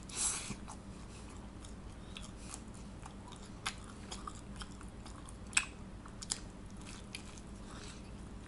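A bite into a slice of pizza at the very start, then chewing with scattered small mouth clicks.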